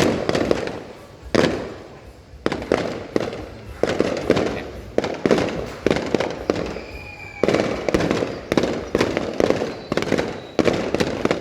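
Aerial fireworks going off in quick succession, sharp bangs about one to two a second, each trailing off into a rumbling echo, with a faint thin whistle about seven seconds in.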